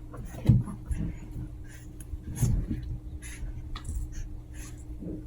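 Chihuahua puppies play-fighting: scattered scuffling, scratching and small thumps, loudest about half a second in and again about two and a half seconds in.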